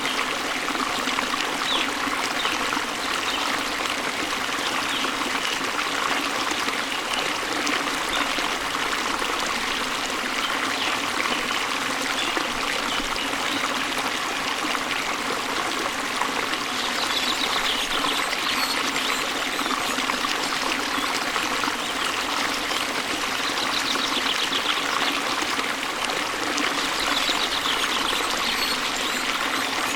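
Waterfall and stream: a steady rush of falling and flowing water. Twice in the second half, faint high bird trills sound over it.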